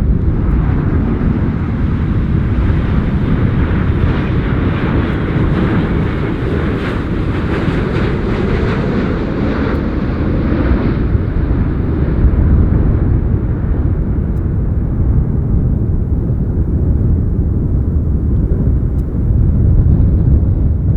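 Jet airliner passing low on its landing approach: a steady low rumble with a rising hiss that peaks about eight seconds in, then falls in pitch and fades as the aircraft moves away.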